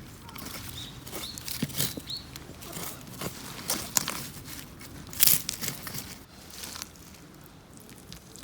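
Irregular rustling with light clicks and knocks as camping gear is handled and packed up, with one sharper knock about five seconds in.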